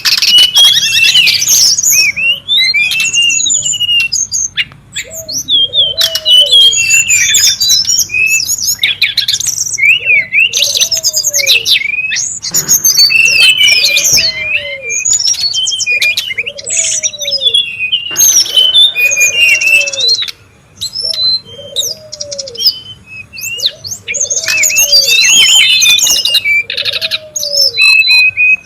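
Brown-chested jungle flycatcher song, busy and overlapping: rapid high chirps and quick whistled glides with a couple of short pauses. A lower arched note repeats every second or two underneath.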